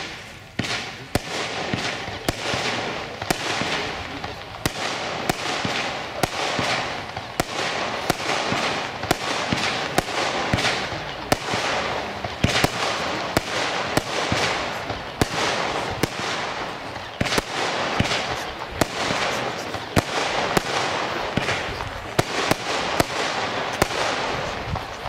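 Weco 'Phoenix' 25-shot firework battery firing: a rapid string of sharp shots, about one or two a second, over a continuous hiss and crackle of the effects.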